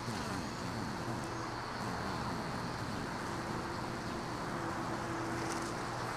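Honeybees buzzing around an open hive during an inspection: a steady, dense hum with a faint tone that comes and goes.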